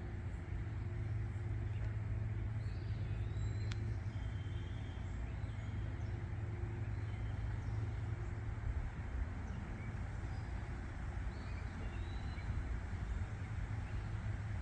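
Steady low rumble of road traffic, with a few faint bird chirps a couple of seconds in and again about eleven seconds in.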